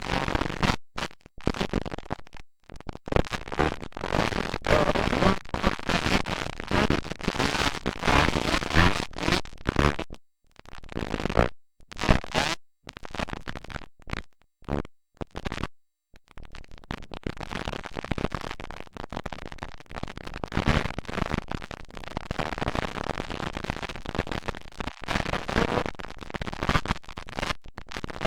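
Harsh, loud noise with no clear pitch, cutting out to silence several times in the first half, then steady.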